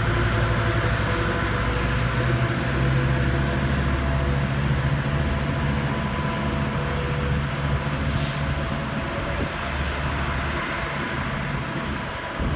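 Diesel locomotive of a Metrolink commuter train running at the station, a steady low engine drone over a broad hiss, with a short burst of hiss about eight seconds in. The low drone drops away about ten and a half seconds in.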